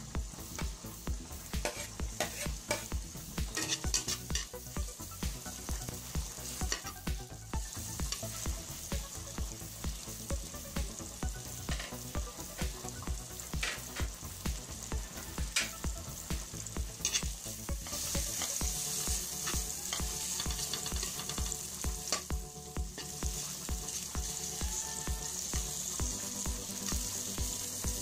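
Sliced red onion sizzling in hot oil in a steel pan, the hiss growing louder about two-thirds of the way through. A metal spoon stirs the onion.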